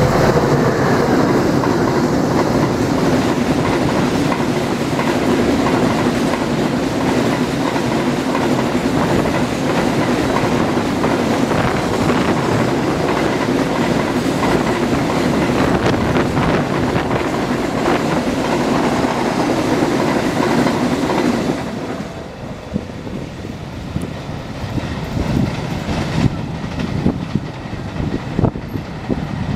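Long container freight train passing close by: the diesel locomotive goes past, then the loaded flatcars' wheels clatter steadily over the rail joints. About two-thirds of the way in the sound drops suddenly to a quieter, patchier level.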